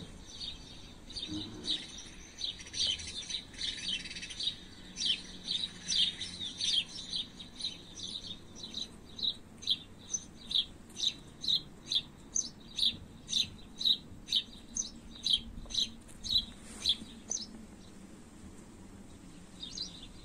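A songbird calling in a long run of short, high chirps. The chirps come thick at first, then settle to about two a second and stop about three-quarters of the way through.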